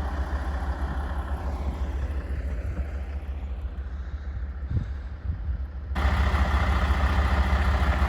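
Plow truck engine idling steadily. About six seconds in, the sound abruptly gets louder and brighter.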